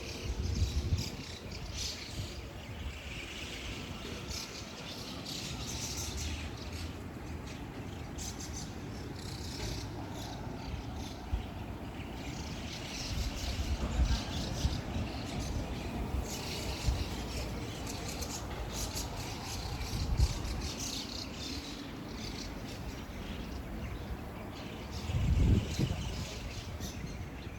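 A flock of birds chattering in a tree: many short high calls overlapping continuously, over a steady low rumble with occasional louder low thumps.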